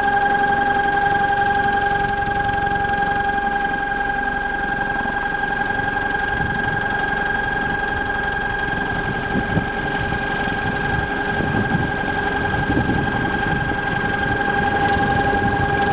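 36N48P brushless electric motor (36 slots, 48 magnet poles) running steadily on test, giving a constant high-pitched whine with a rough low rumble beneath it.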